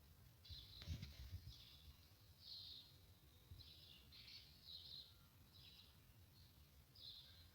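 Small songbirds chirping faintly, short high notes repeating every half second or so, over a low rumble, with one sharp click about a second in.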